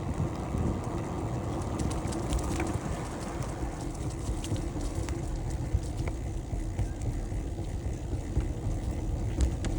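Steady wind and rolling noise from a moving bicycle, with a few faint clicks and rattles.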